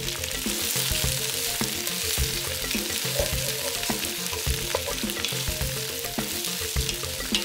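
Sliced onions and bell peppers sizzling in oil in a hot cast iron Dutch oven, stirred with a wooden spoon that clicks against the pot every so often.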